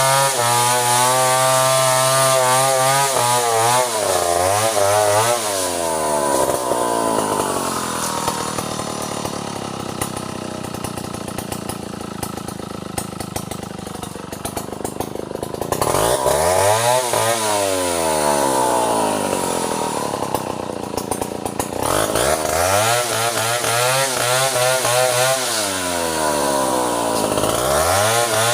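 Chainsaw running and cutting wood, its engine speed repeatedly rising and falling. Through the middle stretch the engine note sinks and turns rougher, then picks up again near the end.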